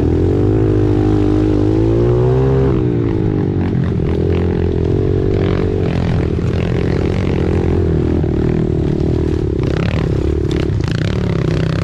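Pit bike engine being ridden. It climbs in pitch for about two and a half seconds, drops off, then rises and falls with the throttle, with clattering knocks about ten seconds in.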